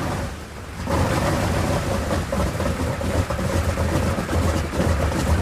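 B-29 Superfortress's Wright R-3350 radial engines running: a deep, steady drone with a steady higher hum over it. It dips briefly at the start and comes back louder about a second in.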